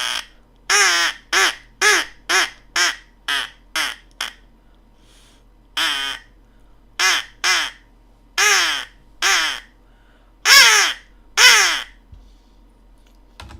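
Mouth-blown crow call blown in a run of caws, each dropping in pitch: eight short caws about two a second, a pause, then seven more, the last few longer and louder.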